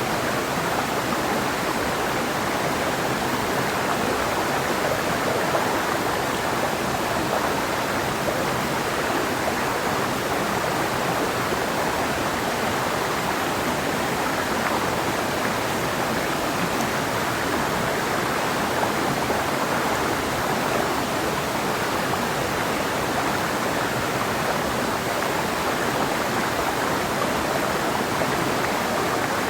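Clear mountain river flowing over rocks: a steady, even rush of water with no change.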